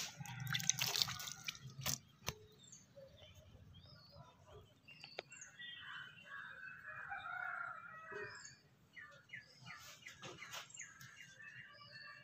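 Faint, scattered chirps of small birds, with a short warbling phrase midway. The first two seconds hold louder rustling and a few sharp clicks.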